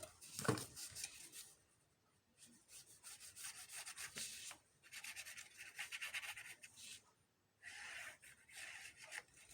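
Paper being rubbed, in three spells of quick scratchy strokes, as a glued page is smoothed and pressed down; a soft knock comes about half a second in.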